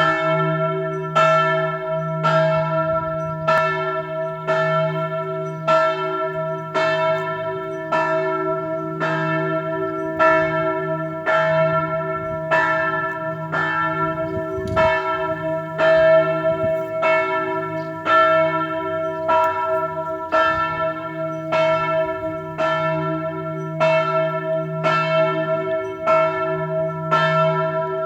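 Church bell tolling in a steady rhythm, one strike a little more than every second, its hum ringing on continuously between strikes.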